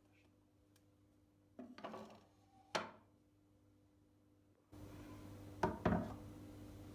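A few light knocks and a sharp clink of household objects being handled and set down, with a faint steady electrical hum coming in about two-thirds of the way through.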